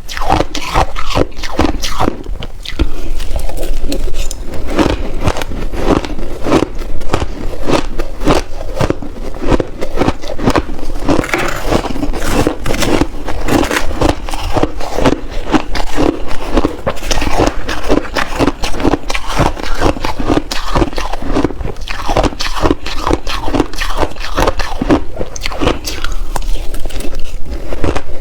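Close-miked biting and chewing of big mouthfuls of shaved ice, a dense, continuous run of loud crunches and crackles.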